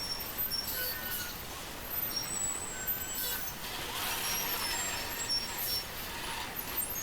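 Heavy vehicle running on the road, with hissing bursts of air brakes about three seconds in and again from about four to six seconds.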